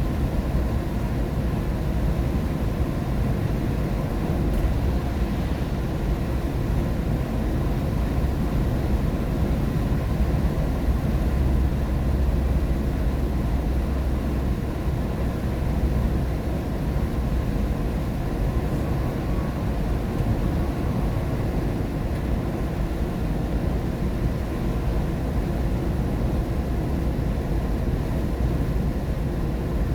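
Steady road noise heard inside a car driving in the rain: a constant low rumble of tyres and engine with a softer hiss over it.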